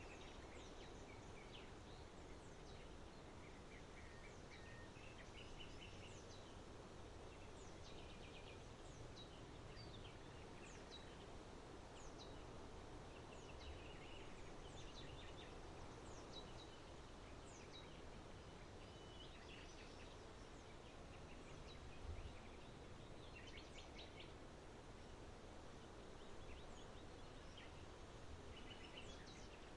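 Small songbirds chirping and twittering faintly and repeatedly in short high falling notes and brief trills, over steady background noise. A single faint low thump sounds about two-thirds of the way through.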